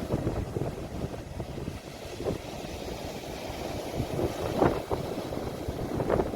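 Sea waves breaking and washing on the shore, mixed with wind rumbling on a phone's microphone, with a few short brighter splashes or sounds about two-thirds of the way in.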